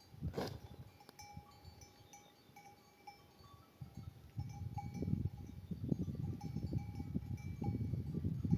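Livestock bells clinking and ringing on and off, with low rumbling noise rising over the second half.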